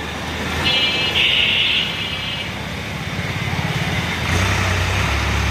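Tractor diesel engine running steadily, with two short high horn toots about a second in; the engine gets louder a little past four seconds.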